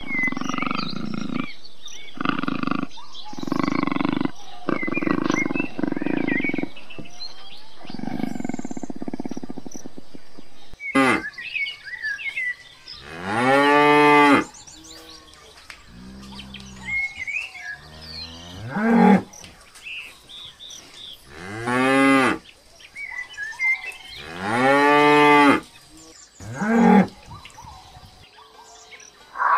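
A leopard growling in harsh rasps, about one a second, for roughly the first ten seconds. Then an African buffalo bellows five times, in low, drawn-out, moo-like calls with pauses between them.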